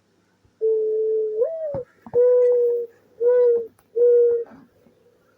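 A bird clock's small speaker playing a recorded low cooing bird call. A long first note lifts in pitch at its end, followed by three steady coos.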